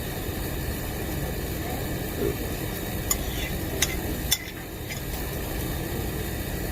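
Steady restaurant background hum with a few sharp clinks of cutlery against dishes, three of them close together in the middle.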